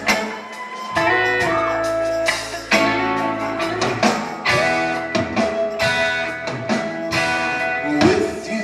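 Live soul band playing a slow ballad, with guitar lines between the vocal phrases over bass and regular drum hits.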